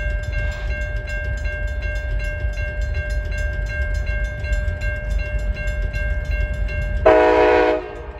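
Union Pacific train led by an SD70ACe-T4 locomotive running past with a steady low rumble, then one short, loud horn blast about seven seconds in. Steady ringing tones and regular clicking sound throughout.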